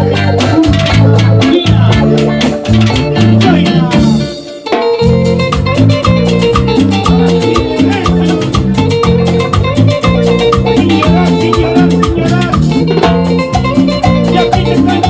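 Live Latin dance band playing an instrumental passage: percussion keeping a steady beat over a moving bass line, with a brief break about four seconds in before the full band comes back in.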